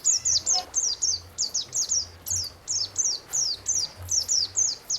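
A songbird singing a rapid, unbroken series of short, high chirps, each falling in pitch, at about four notes a second.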